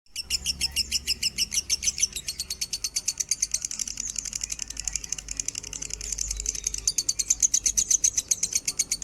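Lovebird chattering: a long, fast, even run of sharp, high chirps, many a second, starting abruptly out of silence and carrying on without a break.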